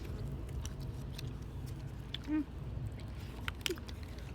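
Someone chewing bubble gum, with small wet clicks over a steady low background hum, and a brief vocal sound about halfway through.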